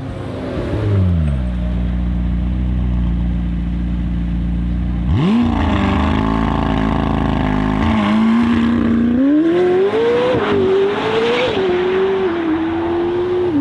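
Sports car engine: its note falls away about a second in and settles into a low steady rumble, then about five seconds in it revs up sharply and pulls away, the pitch climbing again with a couple of brief dips from about nine seconds on.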